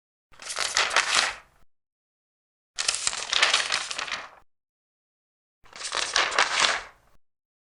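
Large paper pages being turned three times, each turn a crisp rustling sweep of about a second and a half, with dead silence between the turns.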